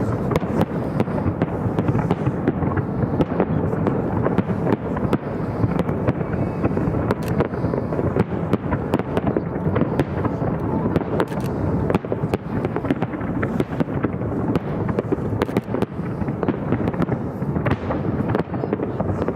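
Fireworks display: a continuous, dense barrage of rapid crackling pops and bangs with no let-up.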